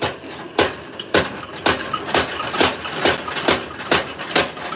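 Blacksmith's power hammer striking metal in a steady rhythm, about two blows a second, each blow ringing briefly. The blows start abruptly and speed up slightly.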